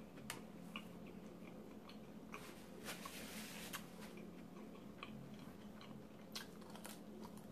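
Faint eating sounds: a person chewing food, with small mouth clicks and smacks. A low steady hum runs underneath.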